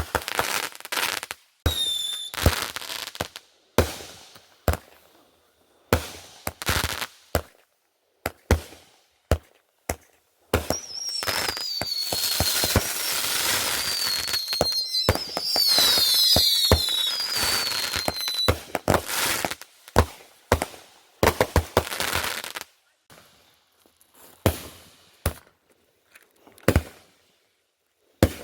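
Fireworks going off: a run of sharp separate bangs, then about twelve seconds of dense continuous firing laced with several whistles that fall in pitch, then scattered bangs again.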